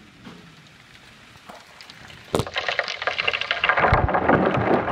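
Heavy rain pelting down: quiet at first, then a sharp click about halfway through and a loud, dense patter of drops that builds to the end.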